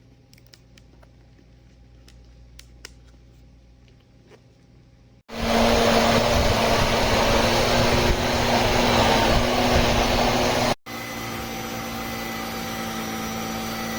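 Jimmy JV35 corded mattress vacuum: a faint hum with a few light clicks, then the motor starts suddenly about five seconds in and runs loud and steady. It breaks off briefly and carries on at a lower level.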